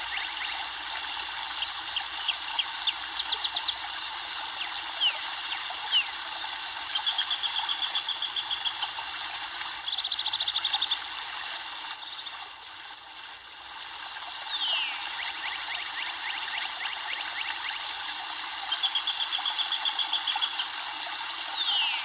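Songbirds calling over a steady hiss: short rapid trills repeat several times, mixed with quick falling whistled notes. The hiss briefly thins out about halfway through.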